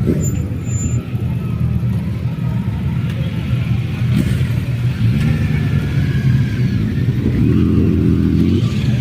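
Motorcycle engine running steadily, then revving higher for about a second near the end before dropping back.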